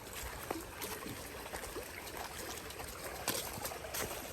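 Stream water trickling and running steadily, with a few faint clicks mixed in.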